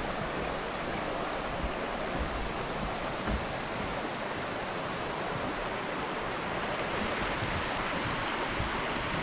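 Mountain stream rushing over rocks: a steady wash of flowing water that grows a little louder about seven seconds in.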